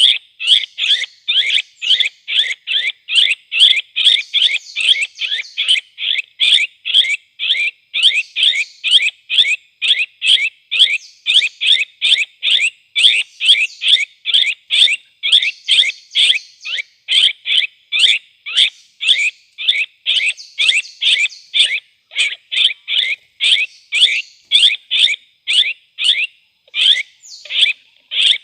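Cucak kopi bird call: a sharp chirping note repeated in an even, unbroken rhythm about three times a second.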